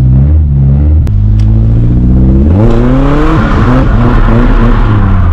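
Stock Nissan 240SX's four-cylinder engine, heard from inside the car, pulling steadily at low revs, then revving up sharply about two and a half seconds in and holding high revs. A rushing hiss of tyres on the soaked road comes in with the high revs as the car is slid.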